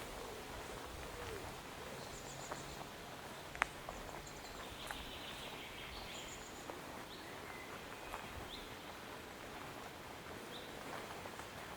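Forest birds singing faintly, scattered high chirps and short trills, with a run of short repeated notes in the second half, over a steady background hiss. A single sharp click about three and a half seconds in.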